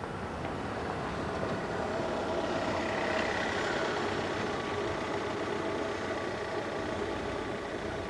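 A motor vehicle engine running steadily, swelling over the first few seconds and then holding level.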